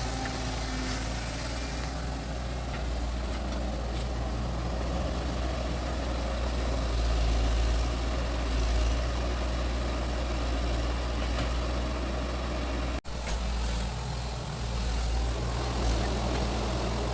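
Excavator's diesel engine running steadily with a deep low rumble, with a momentary dropout about three-quarters of the way through.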